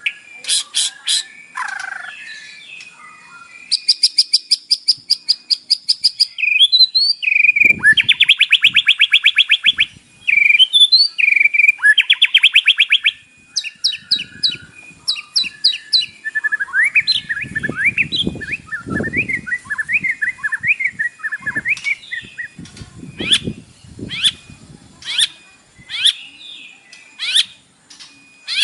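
White-rumped shama (murai batu) singing a varied song with mimicked 'isian' phrases. It runs through sharp whistled notes, several long rapid trills, a fast warbling passage and a string of quick down-slurred whistles near the end. Dull low noises sound under the song in the second half.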